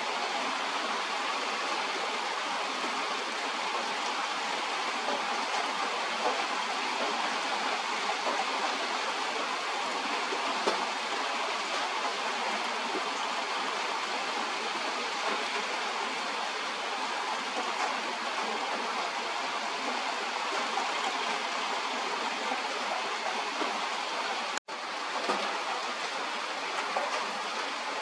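Steady rain falling, an even hiss with a few faint ticks of drops. The sound cuts out for an instant near the end.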